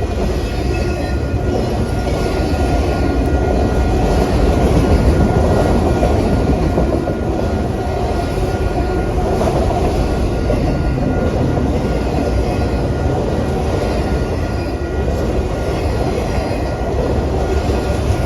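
Railroad cars of a passing train rolling by close at hand: a steady, loud rumble of steel wheels on rail, with faint thin squealing tones above it.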